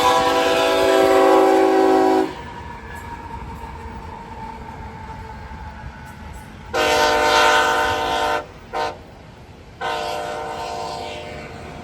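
Freight locomotive's multi-chime air horn sounding the grade-crossing signal: the end of a long blast, then a long, a short and a final long blast that fades away, over the steady rumble of the passing train.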